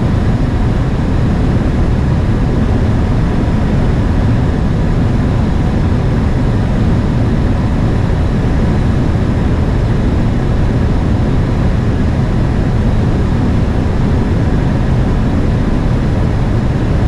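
Steady noise inside an aircraft cockpit in flight on approach: engine and airflow noise, even and unbroken, heaviest in the low range.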